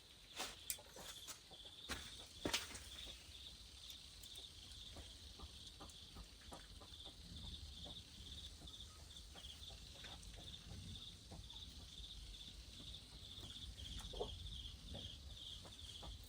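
Quiet rural background with a steady, rapid high-pitched chirping throughout. A few sharp knocks sound in the first three seconds, and a short animal call about 14 seconds in.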